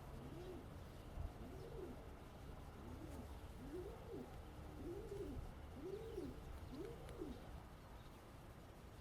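A bird calling: a series of about seven clear, low notes, each rising and then falling, roughly one a second, getting a little louder toward the end.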